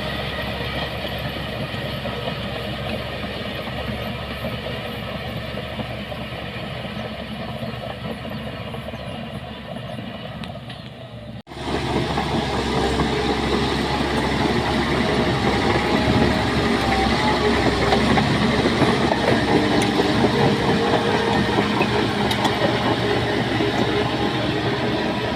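Crawler bulldozer's diesel engine running steadily, with clanking of its tracks. The sound breaks off abruptly partway through and comes back louder and rougher as the machine works under load.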